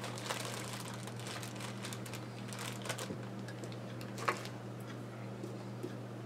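Steady low electrical hum with light rustling and a few small clicks of things being handled, the sharpest click about four seconds in.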